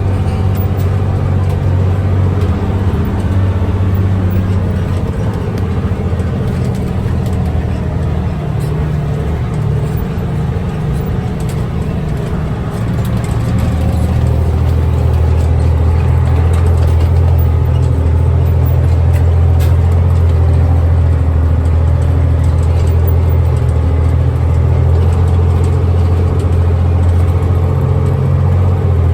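Loaded log truck's diesel engine running steadily as the truck drives off. It eases off for several seconds, then pulls harder again from about halfway through.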